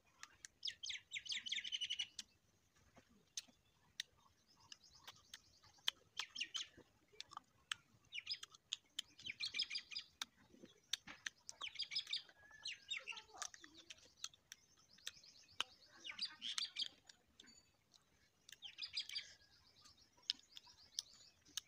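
Small birds chirping in short, rapid trills every few seconds, mixed with sharp crunching clicks of fruit being bitten and chewed close to the microphone.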